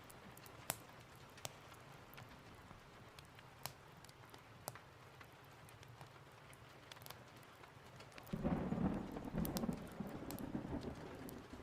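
Steady rain with scattered sharp pops of a crackling fireplace, and a roll of thunder rumbling in about eight seconds in and fading over roughly three seconds.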